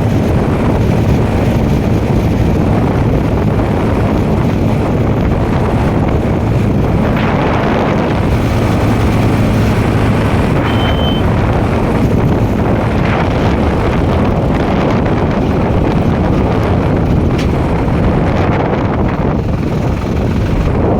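Tractor engine running steadily on the move, with wind buffeting the microphone. A brief high beep sounds about halfway through.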